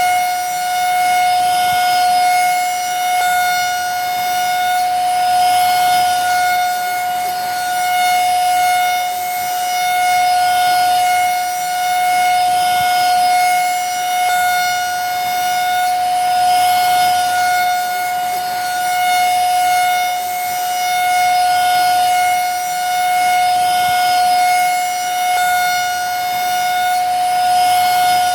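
Vacuum cleaner running steadily: a constant high motor whine with overtones over a rushing airflow noise, its loudness swelling and easing gently every couple of seconds.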